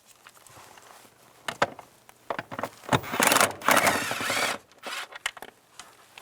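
A ratchet on a 10mm socket backing out nuts. A burst of rapid ratchet clicking runs for about a second and a half from about three seconds in, with scattered clicks and taps of socket and tool before and after.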